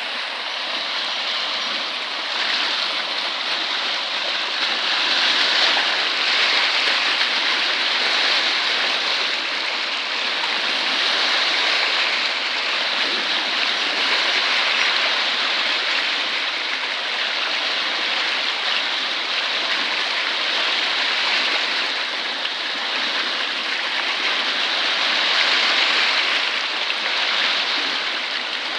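Floodwater rushing steadily at a bridge, a continuous noise of fast-flowing water that swells and eases a little now and then.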